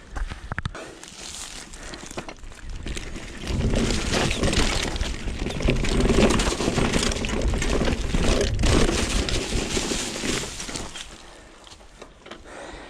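Mountain bike riding down a rough trail: tyres crunching over dirt and stones, the bike rattling, with wind rumbling on the microphone. It grows louder about three and a half seconds in and eases off near the end.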